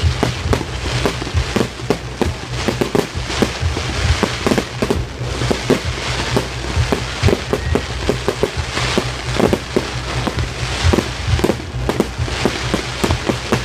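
Fireworks display: a rapid, irregular barrage of bangs and crackles from many shells bursting in quick succession, over a steady low rumble.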